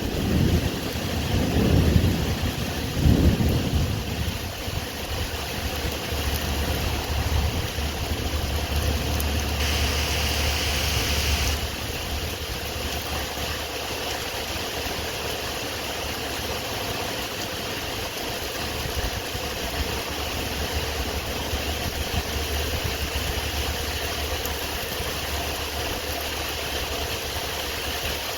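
Thunder rumbling for the first few seconds, then steady rain noise over a low, even hum.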